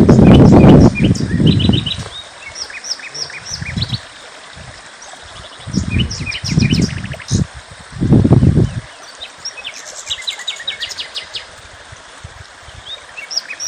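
Small birds chirping and twittering in quick high-pitched series throughout. Loud low rumbles break in over the first two seconds and again around six and eight seconds in.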